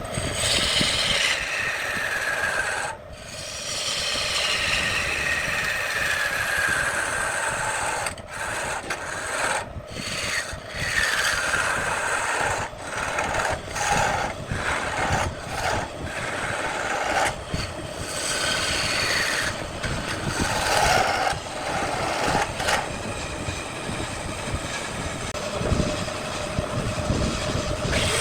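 Turning tool cutting into wood spinning on a wood lathe: a continuous scraping rasp with whining tones that slowly slide in pitch, broken by many short pauses.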